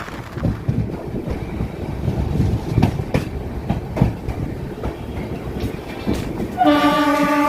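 Passenger train running on the rails, a low rumble with irregular wheel clicks over rail joints, then a loud steady train horn starting near the end.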